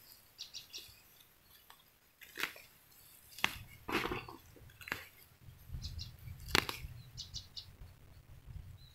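Small birds chirping in short, high runs of three or four notes, with several sharp clicks and knocks scattered in between.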